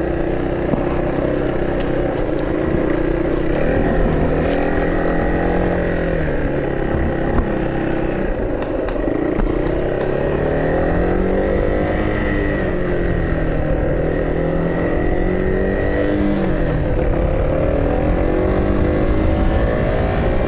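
Vehicle engine running under way, its pitch rising and falling slowly as it speeds up and slows down.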